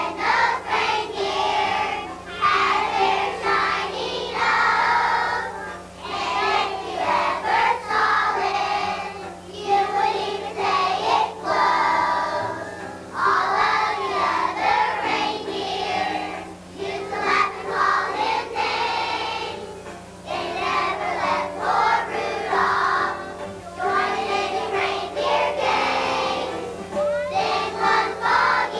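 A choir of elementary-school children singing a Christmas song with musical accompaniment, with a steady low electrical hum underneath.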